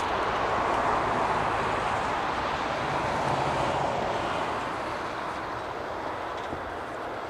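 An aircraft passing, its engine noise at its loudest about a second in and slowly fading away.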